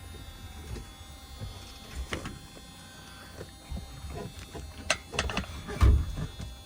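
Scattered clicks and knocks, the loudest a thump near the end, over a low rumble, from handling the truck cab's roof hatch, which has come off its track.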